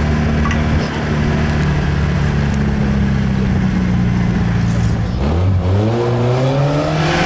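Off-road 4x4's engine running steadily, then revving up sharply about five seconds in and holding at high revs.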